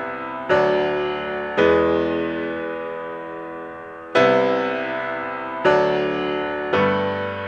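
Slow keyboard music on a piano sound: five chords struck one after another at uneven gaps, each held and left to fade.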